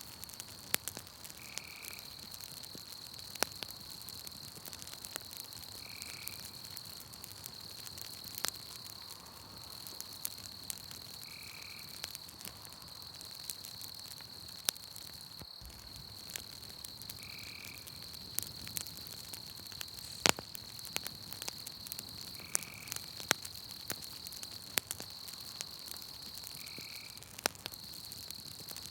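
Campfire crackling with scattered sharp pops, one much louder about two-thirds of the way through, over a steady high insect trill. A frog gives a short call about every five seconds, six times in all.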